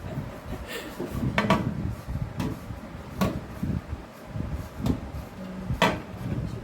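Handling noises while unpacking a microwave convection oven: about six separate knocks and clacks, like a door, panel or parts being moved, over a low rumble.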